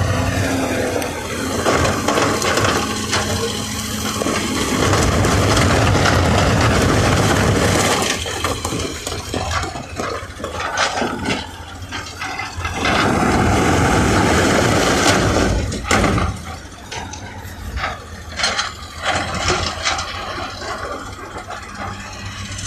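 Heavy earthmoving machinery at work: diesel engines running under load, with bursts of noise and, in the later part, repeated sharp knocks and clatter.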